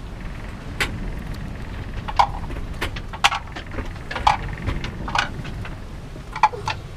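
Sailing yacht underway at sea: a steady low rush of wind and water, with irregular sharp knocks and clatters of gear aboard as the boat moves.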